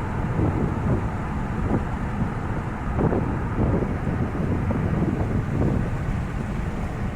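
Car driving along a country road: steady low road and engine rumble, with wind gusting over the microphone.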